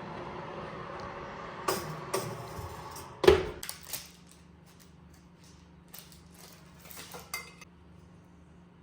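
Dishes and cutlery clinking and clattering, with the loudest knock about three seconds in, over a steady rushing noise that stops suddenly; a few light clicks follow over a low hum.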